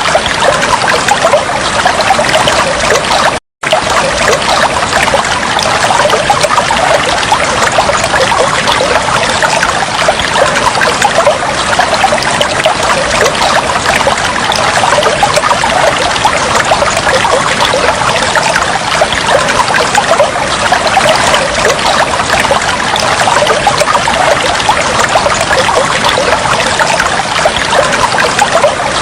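Flowing, trickling water running steadily, with one brief drop to silence about three and a half seconds in.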